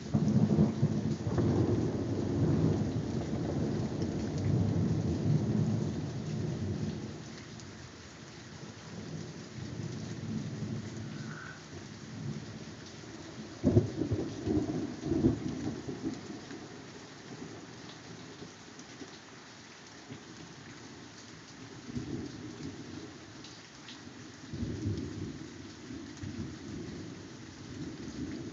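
Thunderstorm: thunder rumbling again and again over steady rain. A long loud rumble fills the first several seconds, a sharp crack about 14 s in rolls on with a second one, and softer rumbles come later.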